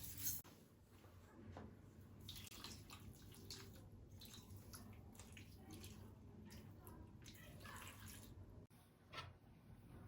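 Faint water sounds, trickling and splashing, with small scattered clicks and knocks.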